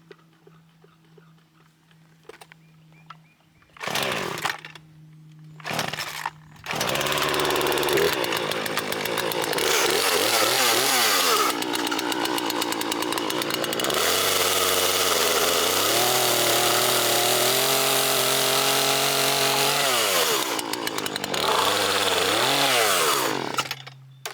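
Poulan Pro PR4218 two-stroke chainsaw idling, revved briefly twice, then held at full throttle for about seventeen seconds as it cuts wood, its pitch sagging and recovering under load, before dropping back to idle near the end.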